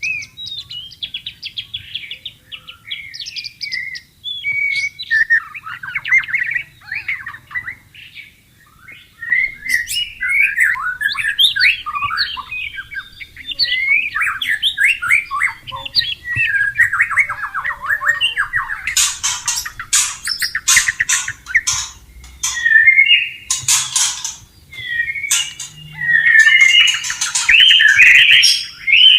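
White-rumped shama singing a long, varied run of quick whistled phrases and trills. About two-thirds of the way in it switches to loud, harsh rasping notes mixed with its whistles.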